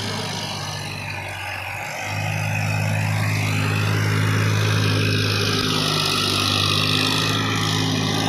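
Tractor engine running steadily, getting louder about two seconds in.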